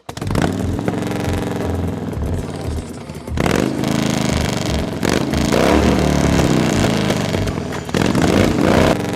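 Harley-Davidson Fat Boy's V-twin engine running and being revved, its pitch rising and falling several times. The sound starts abruptly and grows louder in surges about three and a half seconds in and again near the end.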